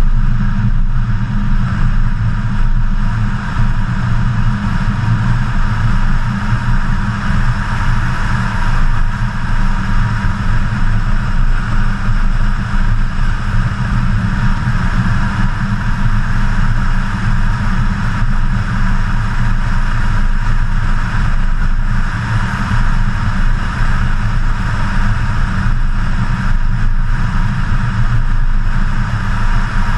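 BMW E92 M3's 4.0-litre V8 running steadily at cruising speed, mixed with a constant rush of wind and road noise, heard from a camera mounted over the hood.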